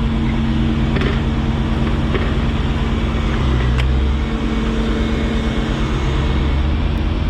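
1990 Corvette's 5.7-litre L98 V8 idling steadily, with a few light clicks.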